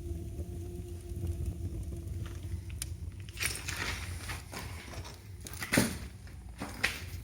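Scraping and rustling handling noises starting a few seconds in, with two sharp knocks near the end, the louder one about six seconds in, over a low steady rumble.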